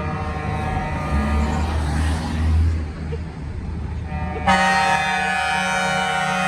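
Truck air horns sounding over a diesel engine's low rumble: one horn tone fades out about two seconds in while the engine revs up, then a louder horn blast starts about four and a half seconds in and stops sharply two seconds later.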